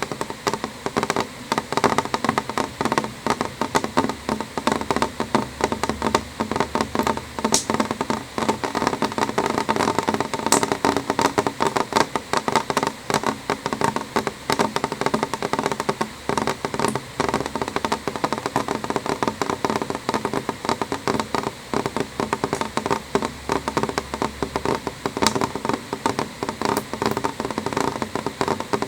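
Rain falling on a window pane: dense, irregular taps of drops on the glass over a steady hiss of rain.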